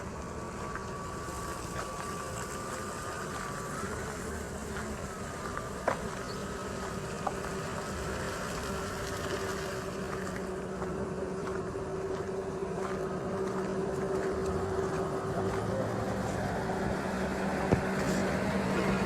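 Street ambience with a steady engine hum that grows slowly louder toward the end, with a few sharp clicks.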